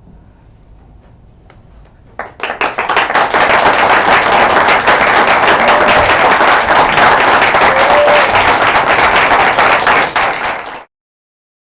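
Audience applauding, starting about two seconds in and cutting off suddenly near the end.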